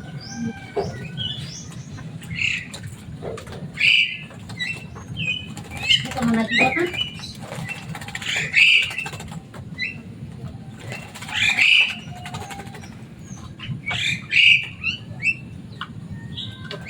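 Javan myna (jalak kebo) calling loudly: short harsh squawks and chattering notes, one burst every second or two, over a low steady hum.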